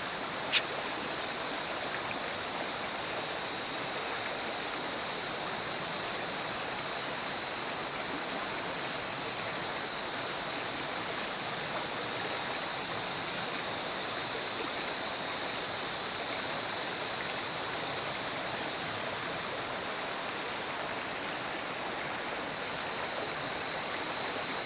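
Shallow river water running steadily, an even rushing wash with no pauses. A sharp click comes about half a second in, and a thin, steady high whine sits over the water for much of the time.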